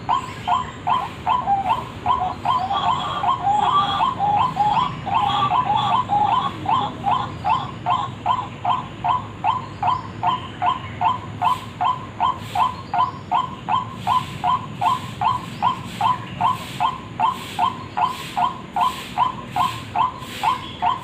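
White-breasted waterhen (ruak-ruak) call played as a bird lure: short notes repeated in a very even run, about two to three a second. From about two seconds in, a second overlapping run of calls joins for several seconds.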